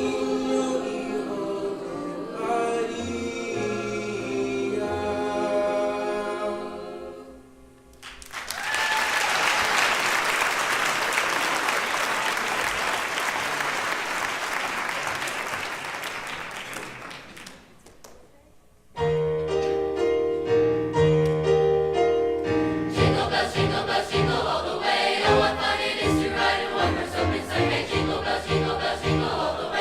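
Large choir ending a song on sustained chords over accompaniment, then audience applause for about ten seconds that fades away. After a short gap, the next number starts with accompaniment on a steady beat.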